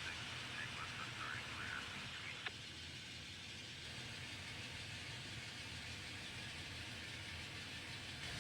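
N scale model train running on the layout: a steady faint hiss with a low hum, a few brief squeaks in the first two seconds and a single sharp click about two and a half seconds in.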